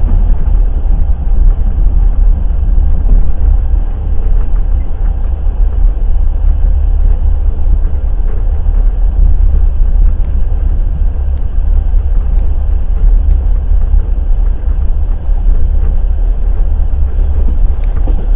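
Passenger train wheels running on rails at speed: a loud, steady, deep rumble with faint scattered clicks.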